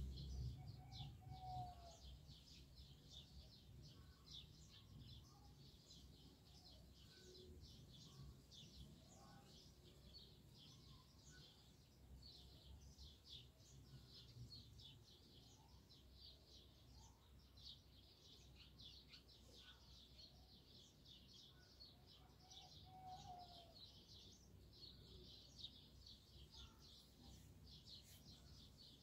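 Faint, continuous chirping of many small birds, with a few lower calls now and then.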